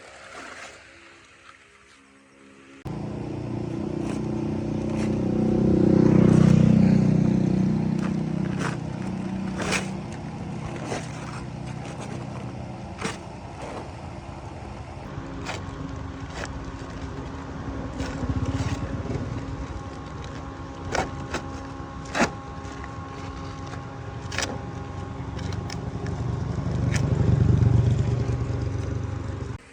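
Jeep engine running, coming in suddenly about three seconds in and revving up twice, once early and once near the end, with scattered sharp clicks over it.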